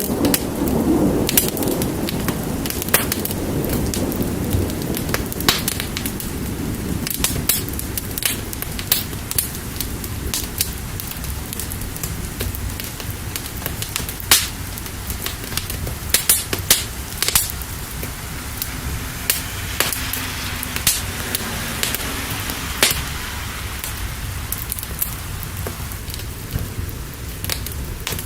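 Steady rain with a wood fire crackling, sharp pops scattered irregularly throughout. A low rumble at the start fades away over the first several seconds.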